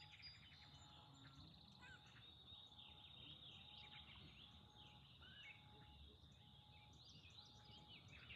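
Faint birdsong from several birds, high chirps and trills overlapping, with a short low note repeating about once a second.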